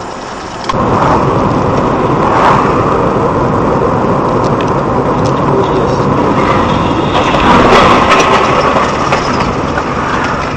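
A car on the move: loud, steady engine and road noise that begins abruptly about a second in and swells a little near the middle and later on.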